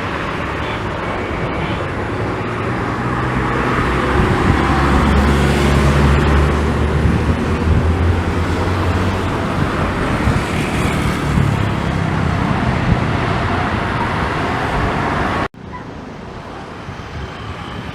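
Jet airliner landing: a loud, low rumbling roar swells and then fades as the aircraft passes. It cuts off suddenly about three-quarters of the way through, and a quieter background of engine and traffic noise follows.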